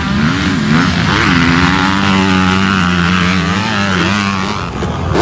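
Motocross dirt bike engines revving, their pitch rising and falling over a steady drone.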